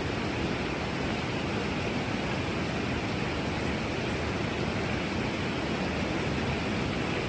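Heavy rain falling, a steady, even hiss with no separate drops or other events standing out.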